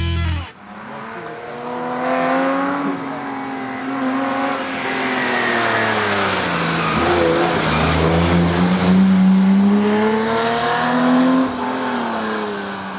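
BMW E30 325i rally car's 2.5-litre straight-six engine driven hard, its revs repeatedly rising and falling through gear changes. The revs dip low about the middle, climb again, and fall away suddenly near the end.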